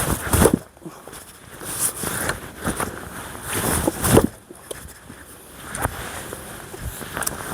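A Fiskars splitting axe strikes a thick, tough log several times, about one heavy blow every one and a half to two seconds. The log does not split.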